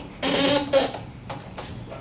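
A short pitched scraping sound lasting under a second, then a couple of light knocks, from parts of a top-load washing machine's cabinet being handled.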